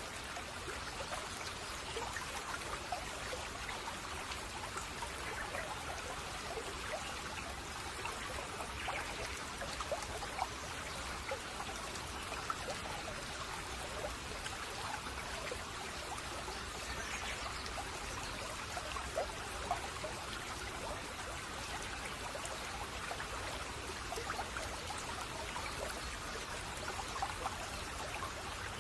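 Shallow brook babbling, water trickling and gurgling over stones in a steady stream of small splashes and drips.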